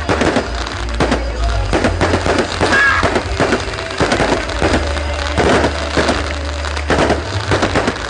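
Fireworks going off in quick, irregular succession: a dense string of bangs and crackles.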